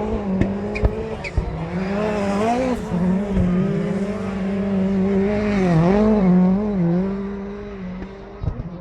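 Rallycross Supercar engines racing hard, the note dipping and climbing again several times as the drivers lift and get back on the throttle, with a few sharp cracks in the first second and a half. The sound fades near the end.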